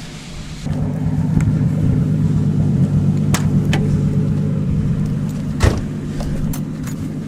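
Nissan RB25 turbocharged inline-six in an S14 240SX idling steadily, with a deep, even rumble that gets louder about a second in. A few sharp clicks or knocks come through, the loudest near the end.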